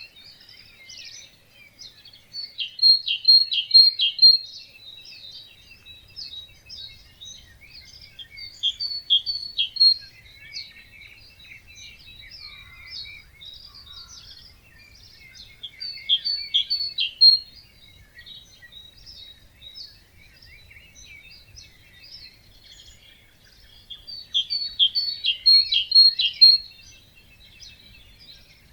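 Several songbirds singing together in a morning chorus, with many overlapping chirps and trills. One nearer bird repeats a louder song phrase of about two seconds, four times, roughly every seven to eight seconds.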